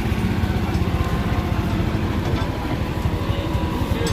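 Vehicle engine running steadily, with a rapid low firing pulse.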